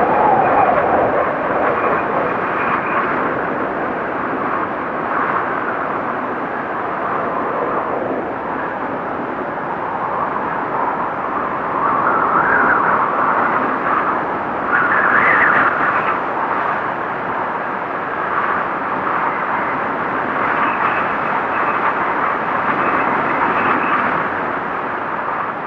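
Blizzard wind howling, a continuous rush that swells in gusts about twelve and fifteen seconds in, with a faint high whistle coming and going.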